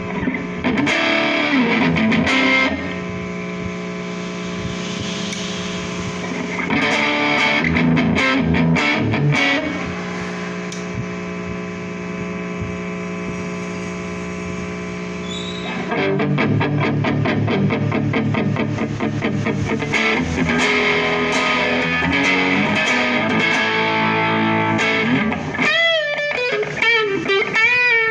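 Distorted electric guitar played through a Mosky DTC effects pedal. Long held chords ring out between short bursts of fast strumming, then a steady rhythmic picked part runs for several seconds, and bending lead notes wobble up and down near the end.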